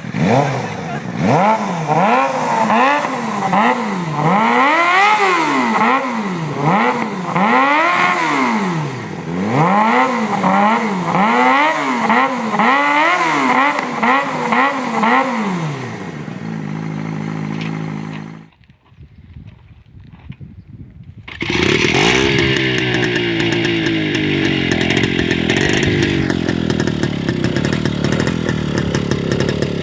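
Motorcycle engine revved again and again, its pitch rising and falling about once a second, then held steady briefly. After a short drop-out, a motorcycle engine runs steadily.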